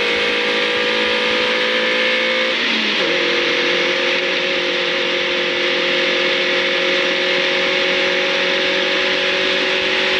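Ariel Nomad's engine running at steady revs under way, heard from the open cockpit over dense wind and road noise. About three seconds in, the engine note briefly wavers and settles at a slightly different pitch, like a gear change, then holds steady.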